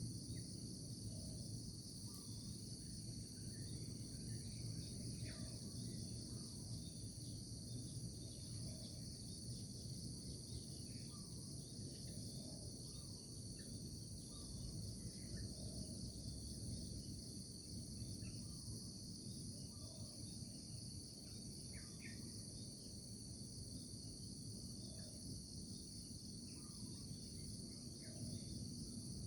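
Steady, high trilling chorus of insects, with a low even rumble underneath and short faint chirps now and then.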